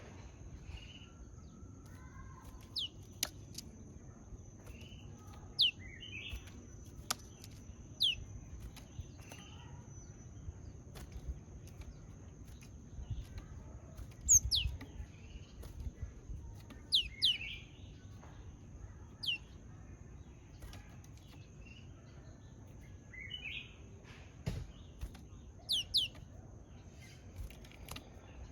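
Japanese tit giving short, high chirps that sweep downward, often two or three in quick succession, every few seconds. A few sharp clicks and a faint steady high whine lie underneath.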